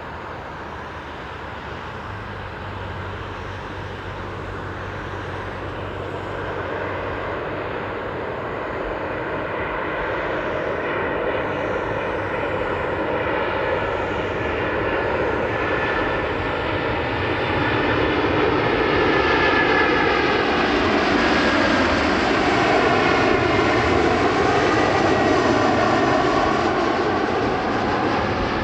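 Passenger jet airliner's engines growing steadily louder as it approaches over some twenty seconds, peaking near the end, with the engine tones sliding in pitch as it passes.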